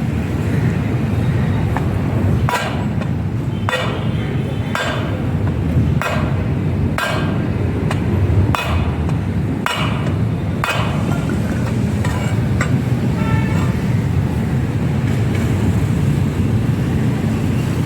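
Hammer blows on a bent aluminium motorcycle mag wheel being straightened after heating with a gas torch: about nine sharp, ringing strikes roughly a second apart, then they stop. A steady low rumble runs underneath.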